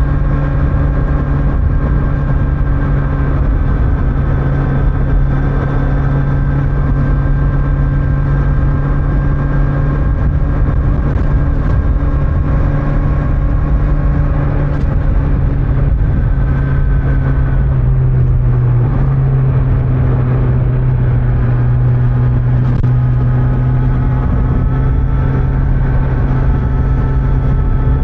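Kawasaki Z900's inline-four engine, on its stock exhaust, running at a steady cruise with wind and road noise. About two-thirds of the way in the engine note drops, then it climbs slowly again near the end.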